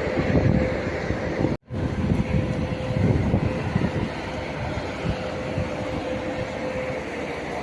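Large 160-horsepower farm tractor's diesel engine running steadily, with a constant whine over a rough, uneven rumble; the sound drops out abruptly for a moment about one and a half seconds in.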